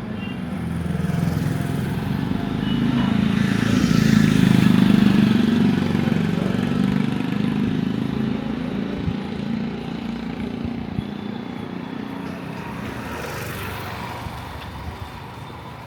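A motor vehicle's engine passing close by, its rumble growing louder to a peak about four to five seconds in and then slowly fading.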